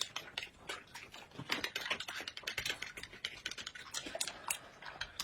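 Close-miked eating sounds: rapid, irregular crisp clicks of chewing and mouth noises, several a second.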